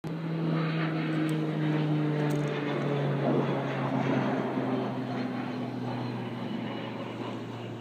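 Propeller airplane flying past, its engine drone slowly falling in pitch and fading.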